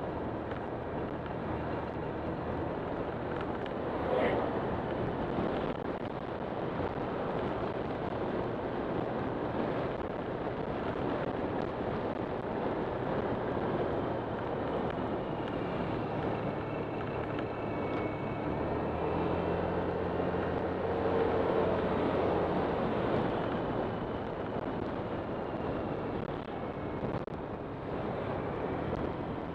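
Honda Click 125 scooter's single-cylinder engine running steadily under way, with wind rushing over the microphone. The engine note grows stronger about two-thirds of the way through.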